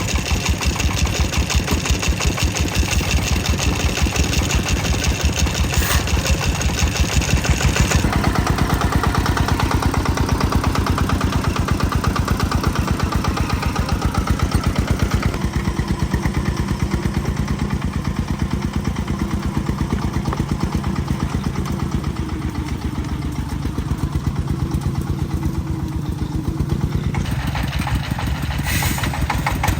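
Tractor engine running with a fast, even pulsing beat; its sound changes abruptly about eight seconds in and again near the end.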